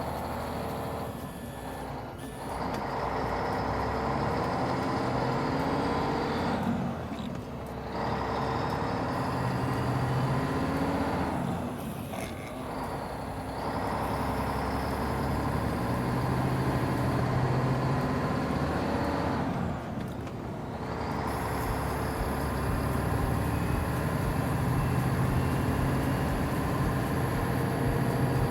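Heavy truck running steadily, its sound dipping briefly about four times.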